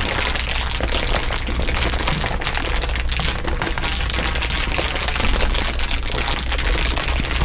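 Dense, continuous crinkling and crackling from several crinkle recordings layered over one another, a fast unbroken stream of small clicks, over a steady low hum.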